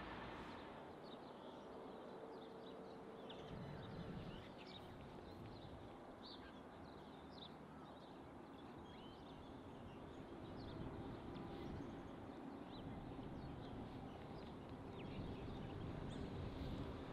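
Small birds chirping in short, scattered calls over a low background rumble that grows slightly louder toward the end.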